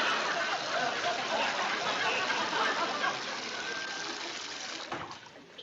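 Water running from a sink faucet in a steady gush that dies away over the last second or so.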